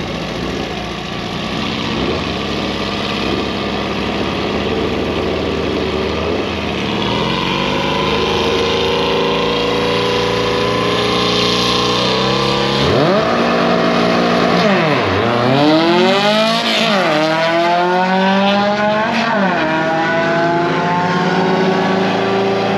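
A drag car's engine making a pass. It revs and climbs steadily in pitch, then sweeps up and drops back several times as it runs through the gears, at full throttle down the strip.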